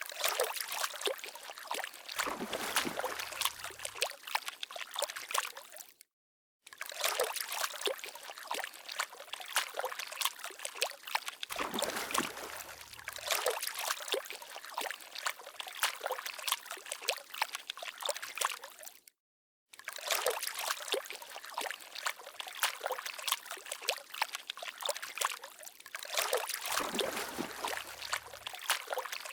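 Water trickling and dribbling, a dense run of small drips and plinks like a little stream. It cuts out completely twice for about half a second.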